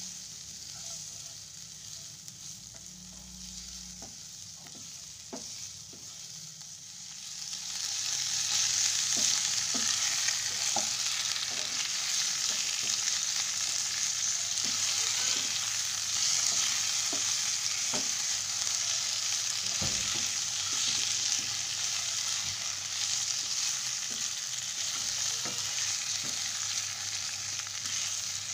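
Shallots and spices sizzling gently in a non-stick wok as a wooden spatula stirs them, with a few knocks of the spatula on the pan. About seven seconds in, chicken drumsticks go into the hot oil and the sizzle turns loud and steady while the spatula keeps stirring and knocking against the pan.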